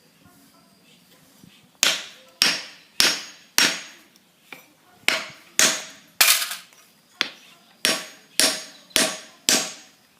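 Hammer blows, about a dozen sharp strikes roughly two a second starting about two seconds in, driving a softwood wedge into the kerf of a splitting maul's wooden handle to lock the head on.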